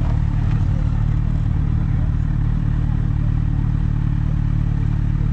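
A vehicle engine running steadily at a constant speed, with a fast low pulsing.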